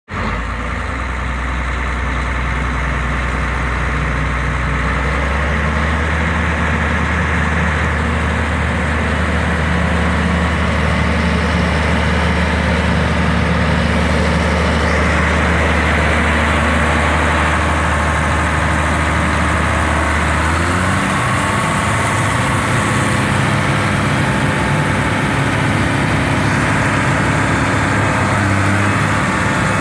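John Deere 9400T track tractor's diesel engine running steadily, its speed stepping up about five seconds in and again about twenty seconds in.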